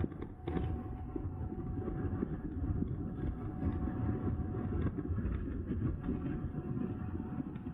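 Wind buffeting the microphone and tyre rumble from an e-bike ridden at full speed, with a faint steady whine.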